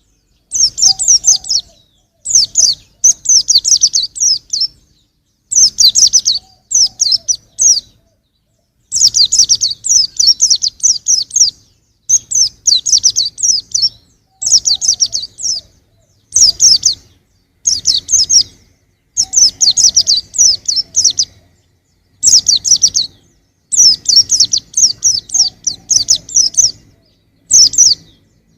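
Young white-eye (pleci) singing: phrases of rapid, high twittering notes, each a second or two long, repeated over and over with short pauses between.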